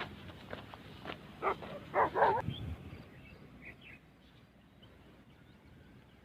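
A dog barks in a short run about a second and a half to two and a half seconds in, over light footsteps; afterwards it is quiet but for a few faint bird chirps.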